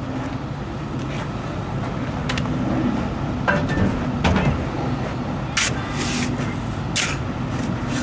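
Stuck truck's engine running and revving as it tries to drive out of soft sand, digging itself deeper, with several short hissing bursts in the second half.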